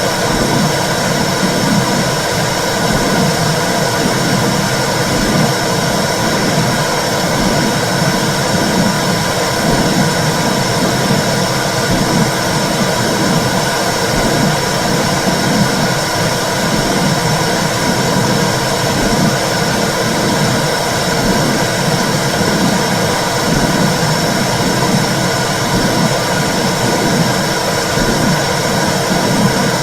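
Womb (intrauterine) sound for soothing babies: a steady, loud whooshing rumble with a regular rhythmic pulse through it.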